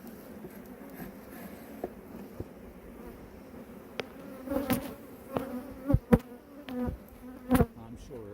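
Honeybees buzzing steadily around an open hive, a continuous low hum. A few sharp knocks come in the second half.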